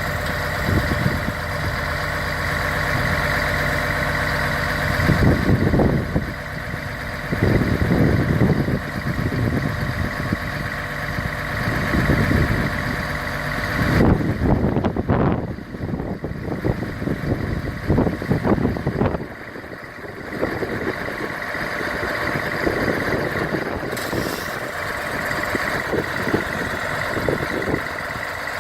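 Mercedes-Benz SK 1824 AK truck's diesel engine idling, with a run of repeated louder surges from about 5 to 19 seconds in before it settles back to a steady idle.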